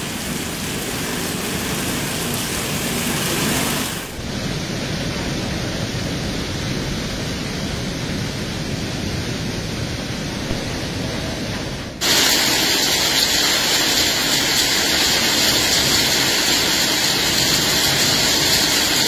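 Heavy hail and rain falling in a steady, dense hiss. The sound changes abruptly twice, about four and twelve seconds in; the last part is brighter and louder.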